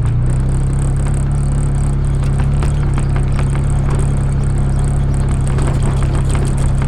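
A vehicle engine running at a steady speed, with a constant high whine and rattling clatter over it.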